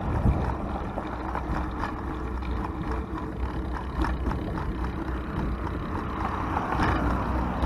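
Steady low wind rumble on the microphone with road traffic going by on a four-lane road, swelling briefly near the end as a vehicle passes.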